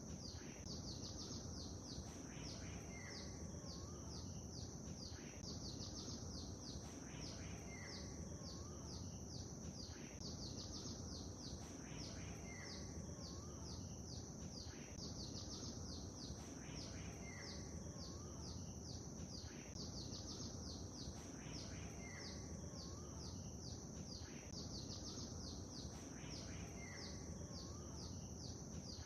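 Lakeside ambience: small birds chirping in quick runs of short, high notes every couple of seconds, over a steady low rush of water noise.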